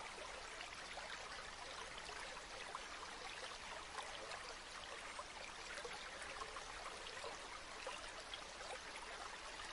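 River water flowing steadily, an even babble flecked with small trickles and splashes.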